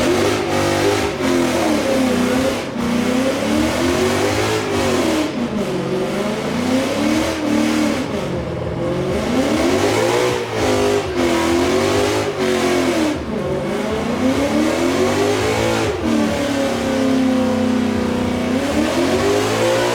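A Mustang's engine revved hard over and over, its pitch climbing and dropping every second or two, then held steady for a couple of seconds near the end before rising again.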